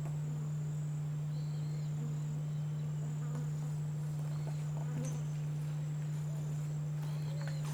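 Outdoor field recording: a steady low hum with a thin, continuous high-pitched insect trill above it, and a few faint short bird chirps.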